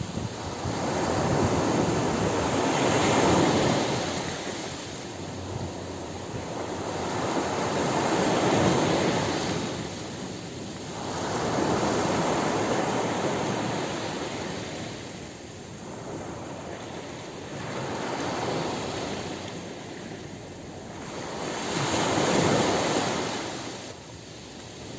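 Ocean surf washing onto a beach, a steady rush that swells and ebbs in slow surges about every five seconds, five in all.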